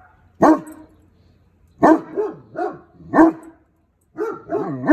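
Dogs barking loudly but not aggressively, in clusters: short sharp barks, then quick runs of two or three barks that rise and fall in pitch, about eight in all.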